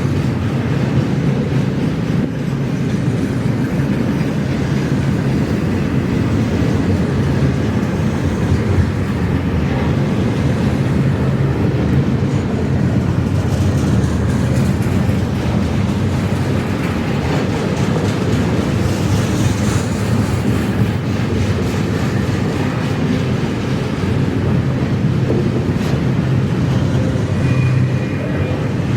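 Intermodal freight train rolling past, a steady loud rumble of wheels on rail.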